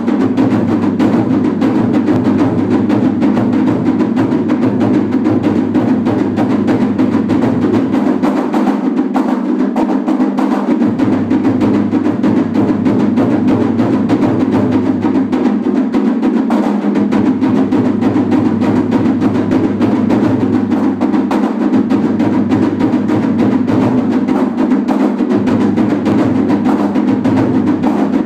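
Japanese taiko drums played in a steady, rapid, unbroken stream of strokes for festival drumming.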